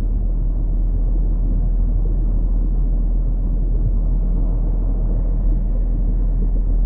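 A steady low rumbling noise with no distinct events, heavy at the bottom and dull at the top.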